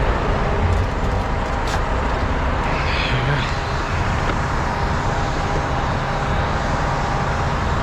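Steady motorway traffic noise, an even rumble of passing vehicles with a few faint clicks.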